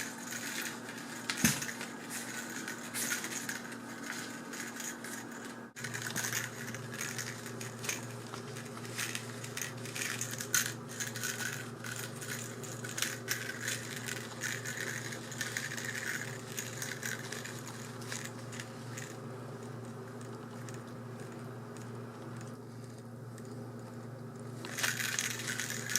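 A kitten at play: scattered small clicks, rattles and crinkles from paws and a toy, over a steady background hum.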